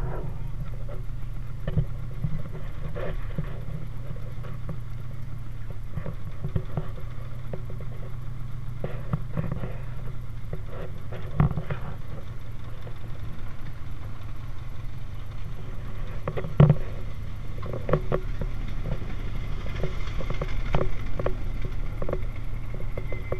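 1931 Ford Model A speedster's four-cylinder engine running steadily as the car drives slowly. A few sharp knocks and rattles stand out, the loudest about halfway through.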